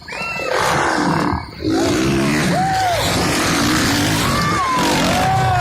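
Motocross dirt bikes revving and running, loud and continuous, with rising and falling engine pitch and voices mixed in.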